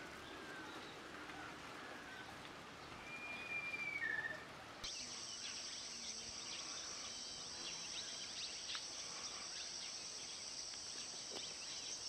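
A bird's whistled note about three seconds in, held for about a second and then dropping in pitch. From about five seconds in, a steady high-pitched insect drone starts abruptly, with faint short chirps over it.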